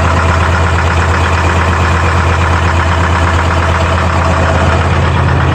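Detroit Diesel 4-53 two-stroke four-cylinder diesel in a Clark skidder idling steadily, shortly after a cold start on an engine that had not been run in a long time.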